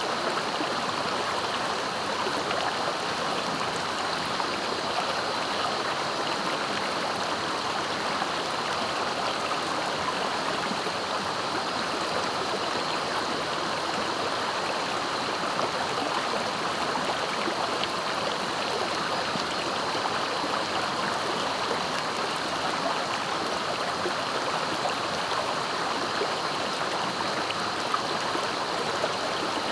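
Swift, clear river flowing: a steady, unbroken rush of water.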